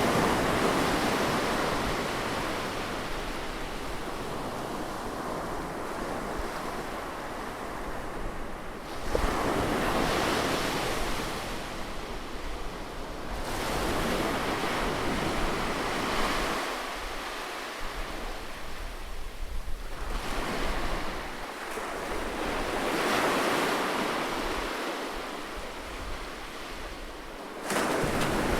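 Ocean waves breaking and washing up a beach. The surf swells and fades in surges every several seconds, and one surge rises abruptly near the end.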